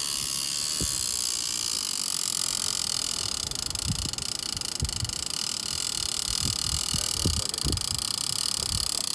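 Big-game fishing reel's drag buzzing steadily as line is pulled off by a running shark, with scattered low knocks of handling.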